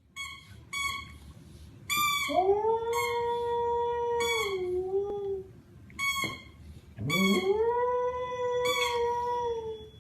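Dog howling: two long howls, each rising in pitch and then held for about three seconds. Short high-pitched notes sound on and off between and over them.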